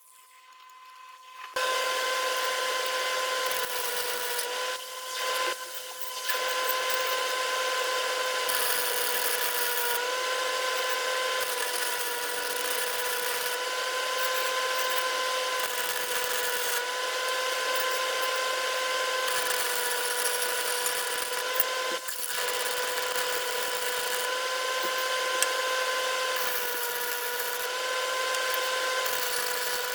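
A power tool starts about a second and a half in and runs steadily with a constant motor tone, dipping briefly a few times.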